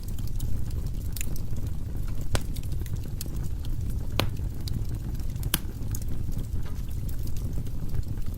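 Firewood burning in a fireplace: a steady low rumble of the flames with scattered sharp crackles and pops, four of them standing out.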